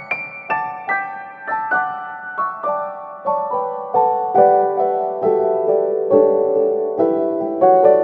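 Background piano music: single notes played at an even pace, each struck and then fading, the melody moving gradually lower.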